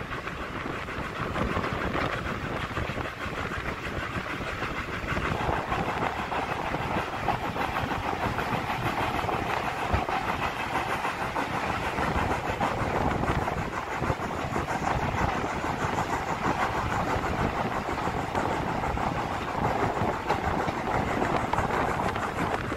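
Steam-hauled train carriages running along the track, heard from an open carriage window: a steady rush of wheel and rail noise mixed with passing air, growing a little louder about five seconds in.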